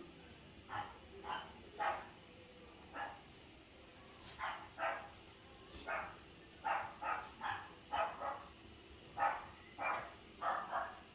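Cat licking ice cream: a string of short, sharp licking sounds at an uneven pace, about one or two a second.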